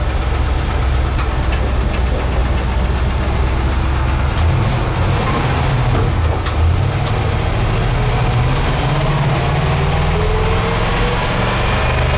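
Fuel-injected Chevrolet 350 small-block V8 running under way, heard from inside the cab of a Toyota FJ45 pickup. The engine note steps up about four seconds in, and a rising whine builds near the end as the truck gathers speed.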